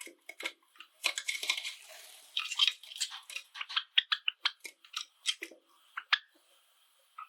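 Java sparrows making a dense run of quick clicks and short chirps, thinning out near the end.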